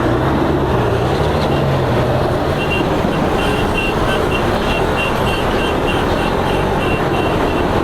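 Motorcycle riding at speed: steady road and wind noise with the engine's hum, which wavers in pitch for the first couple of seconds. A rapid series of short high beeps runs through the second half.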